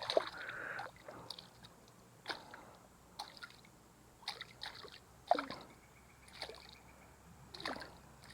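Faint water splashes and drips, short and scattered about once a second, with a hooked snakehead on the line.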